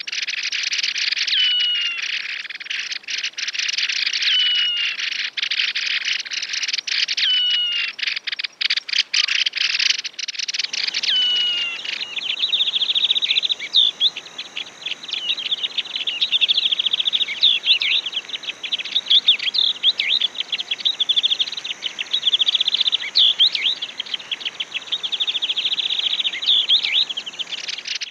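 Yellow-eyed babbler song: repeated clear whistled notes that slide downward, amid dense chirping. About eleven seconds in, the sound changes to fast chattering trills over a steady high-pitched hiss.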